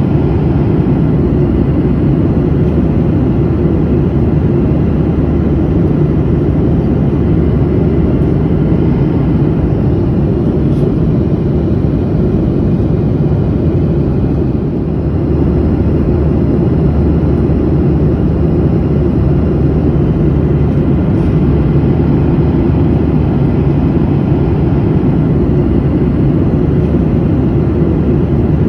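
Steady, low roar of an airliner's cabin in cruising flight: engine and airflow noise, with a slight dip in loudness about halfway through.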